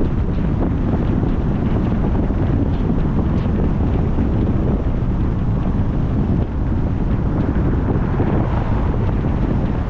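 Wind buffeting the microphone: a loud, steady, low rush with constant flutter and no let-up.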